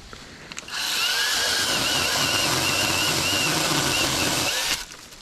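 A Saker 20-volt cordless mini chainsaw on a pole extension runs for about four seconds, cutting a tree limb, then cuts off suddenly. Its motor and chain give a high whine that wavers in pitch as it cuts.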